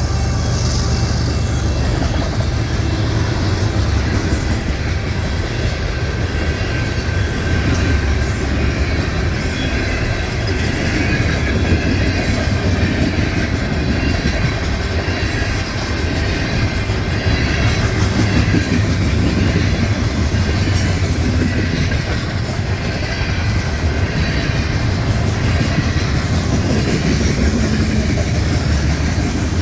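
Freight cars of a long manifest train rolling past at steady speed: a continuous rumble of steel wheels on rail with clickety-clack over the rail joints and occasional brief high wheel squeaks.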